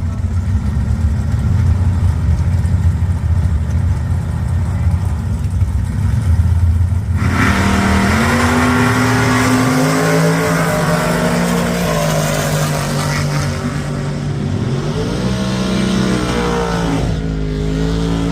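Drag racing cars with big V8 engines rumbling at the line, then launching about seven seconds in: a sudden loud rise of engine noise that climbs in pitch, drops back at the gear changes and climbs again, fading near the end.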